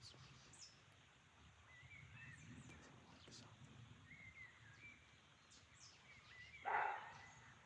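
A roe deer barks once, a short loud call about seven seconds in, against faint bird chirps. The uploader takes the bark for a territorial or mating call.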